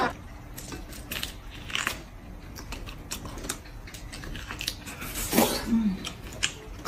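Close-up eating sounds: biting and chewing on a braised pig's trotter, with many small clicks of the mouth and teeth, and a louder, noisier stretch about five seconds in.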